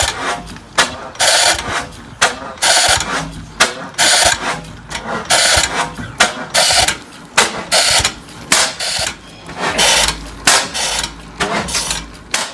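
Antique engine running slowly, with loud exhaust beats and mechanical clatter about twice a second.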